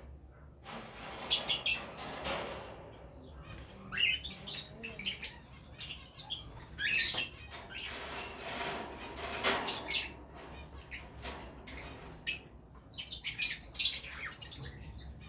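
Small caged aviary birds chirping and squawking in short clusters of calls, with occasional light knocks as feed cups are set into the wire cages.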